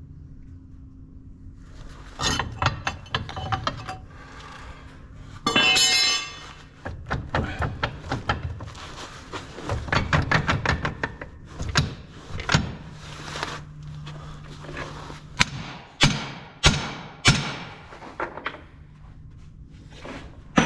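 Steel parts of a paver's track chain and tools clanking and knocking as the chain is worked on by hand, with a run of about four hard, hammer-like strikes a little over halfway through. A low steady hum runs underneath.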